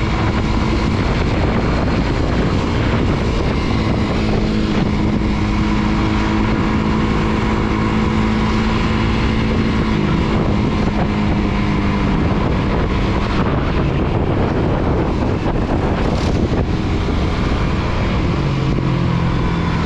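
Suzuki GSX-R150's single-cylinder engine running at a steady cruise, with wind buffeting the microphone. The engine note holds steady, then falls away about twelve seconds in. A lower note comes in near the end.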